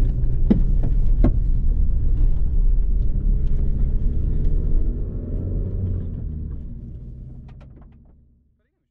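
Renault Mégane 4 RS Trophy's turbocharged four-cylinder engine running steadily at low revs, heard from inside the cabin, with two sharp clicks in the first second and a half; the sound fades out over the last two seconds.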